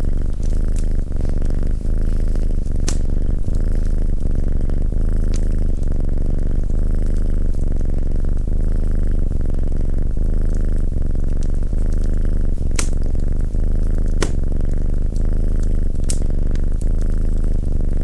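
A domestic cat purring close to the microphone: a loud, steady, low, pulsing rumble. Several sharp crackles and pops from a wood fire in a fireplace cut through it at irregular moments.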